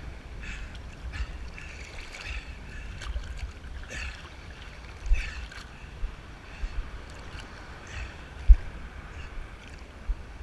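Sea water sloshing and splashing close by as waves pass, with wind buffeting the microphone in low rumbles; two sharper thumps about five and eight and a half seconds in.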